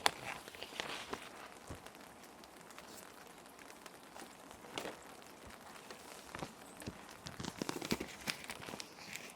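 Plastic sheet protectors crinkling and rustling in irregular clusters of sharp crackles as they are handled, busiest near the start and again in the last few seconds. A steady hiss of rain runs underneath.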